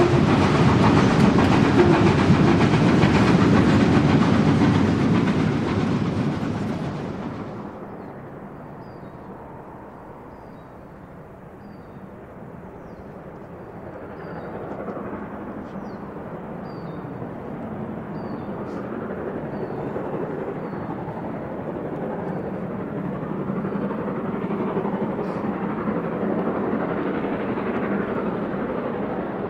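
Train running on the rails: a loud rumble that fades away over the first several seconds, then a duller, quieter rumble that slowly grows louder.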